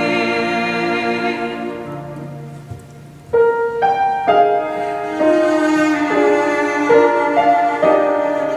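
Slow instrumental music on piano and bowed strings: a held chord fades away, then new notes come in sharply about three seconds in and the piece carries on.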